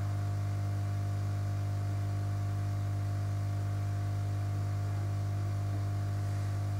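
Steady low electrical hum with fainter steady overtones, even throughout, typical of mains hum picked up in the recording.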